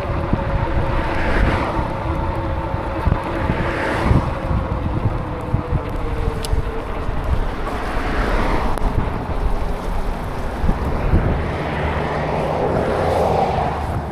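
Wind buffeting the microphone while riding through rain, over the hiss of tyres on wet pavement, with a few swells of louder road noise.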